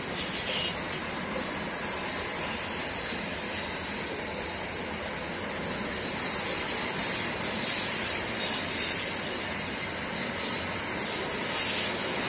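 Freight train of container cars rolling past, a steady rumble and rattle of wheels on the rails, with brief high-pitched bursts every few seconds.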